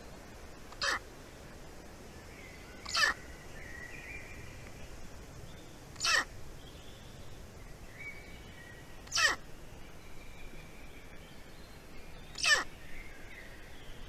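A bird's short, loud call that falls steeply in pitch, given five times about three seconds apart, with faint thin whistles between the calls.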